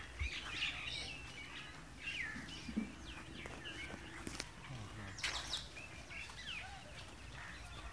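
Several birds chirping, their short calls overlapping all through, with a sharp click and a brief rasp about halfway through.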